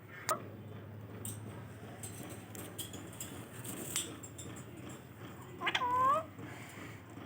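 A parrot calling: a sharp squawk sweeping down in pitch near the start, a few small clicks, then a longer pitched call with a bending pitch about six seconds in, the loudest sound.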